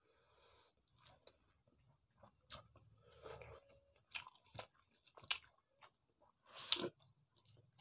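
Close-up eating sounds of people eating rice and fish curry by hand: wet chewing and lip smacks in short irregular clicks, with one louder smack near the end.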